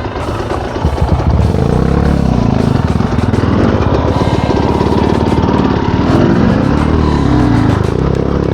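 Enduro dirt bike engine revving, its pitch rising and falling again and again with the throttle.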